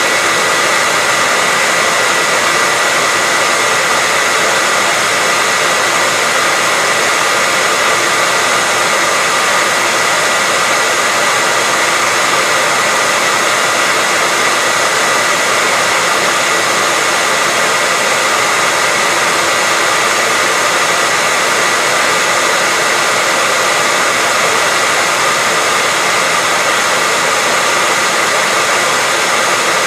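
Hair dryer running steadily: an even rush of air with a steady whine from the motor, unbroken throughout.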